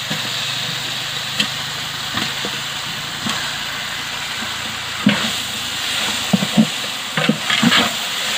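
Marinated quail pieces sizzling as they go into a large aluminium pot of hot oil and onion-tomato masala, a steady hiss. In the second half a metal ladle knocks and scrapes against the pot as the pieces are stirred in.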